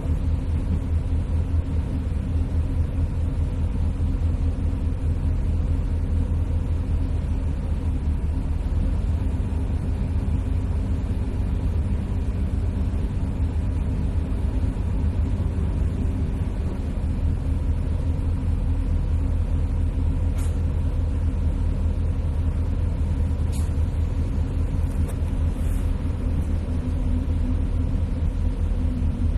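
Steady low engine rumble of a moving motor vehicle, with a few faint short ticks about two-thirds of the way through.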